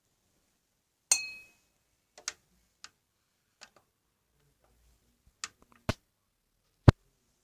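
Objects being handled and set down: a light clink with a brief ring about a second in, then a scattered series of taps and clicks, ending in a sharper knock near the end.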